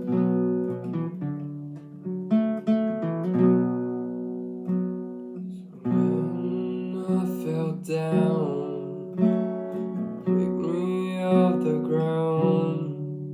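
Acoustic guitar intro, notes picked one at a time and strummed.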